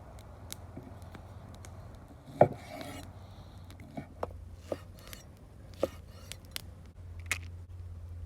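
Irregular knocks and light taps of a knife and food on a wooden cutting board during food preparation, with one louder knock about two and a half seconds in.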